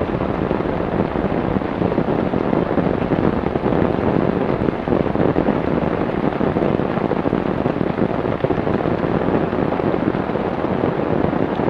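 Heavy rain falling steadily, a dense, loud patter of drops hitting a surface.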